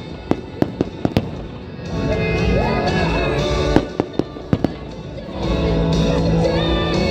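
Fireworks exploding in a quick series of sharp bangs and crackles, clustered near the start and again about four seconds in, with music playing loudly underneath in two swells.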